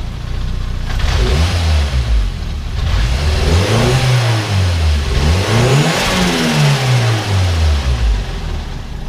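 Turbocharged Nissan GA16DE 1.6 four-cylinder engine free-revved several times, each rev rising and falling in pitch. With no blow-off valve fitted, the turbo compressor surges a little as the throttle closes.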